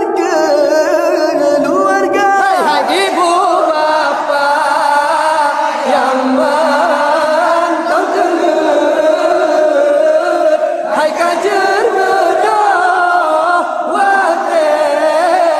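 Voices singing a drawn-out, wavering melody together with no clear words: a sahur wake-up chant.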